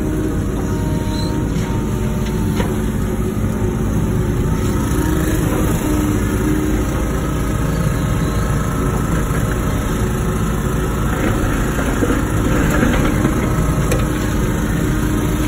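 Wacker Neuson ET 145 excavator's diesel engine running steadily while the machine works.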